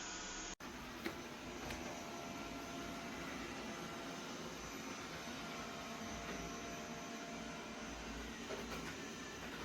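Dreame D9 Max Gen2 robot vacuum cleaner running with a steady noise. The sound cuts out briefly just after the start, and a single click follows about a second in.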